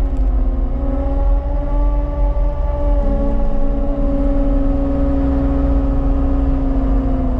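Diesel engine of a piece of earthmoving equipment running steadily, with a slight shift in engine speed about three seconds in.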